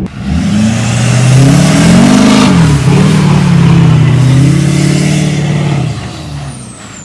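Duramax 6.6-litre diesel pickup engine revving hard while the truck is driven through soft sand. The engine pitch climbs about a second in, holds high, then eases off near the end, and a high whine falls in pitch as the throttle comes off.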